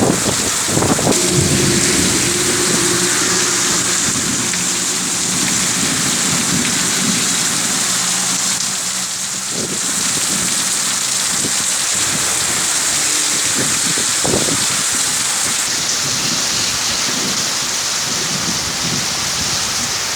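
Heavy rain pouring down in a steady, dense hiss. A low hum runs under it through the first half, and a few dull knocks sound near the start and again later.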